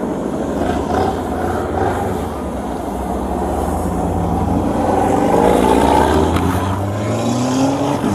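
Motor vehicle engines running, with one revving up, its pitch rising over the second half.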